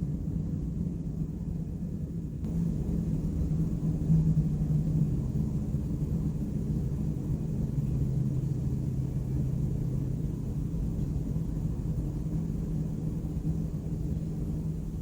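City traffic noise: a steady low rumble of vehicles, a little louder from about two seconds in.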